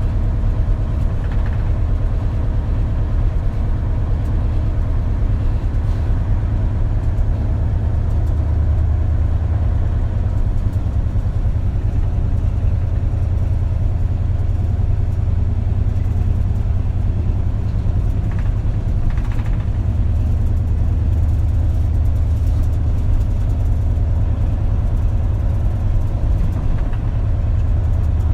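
Isuzu Erga KL-LV280L1 city bus's diesel engine running, heard from inside the cabin as a steady low drone.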